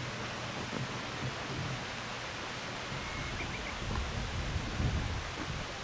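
Steady rushing of a waterfall, an even wash of falling water, with a few low rumbles about four to five seconds in.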